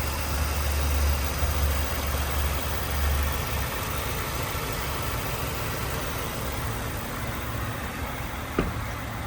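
Ford F-150 pickup's engine idling steadily, a low rumble that is strongest for the first few seconds and then eases, with a single sharp click near the end.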